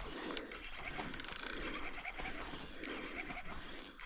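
A person breathing hard and rhythmically close to the microphone, typical of an angler straining while fighting a hooked fish.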